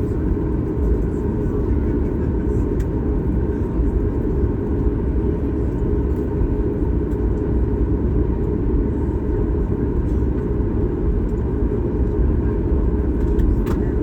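Steady cabin rumble of a Boeing 737 MAX 8 during taxi: the engines running at idle thrust and the wheels rolling, with a faint steady hum over the low noise.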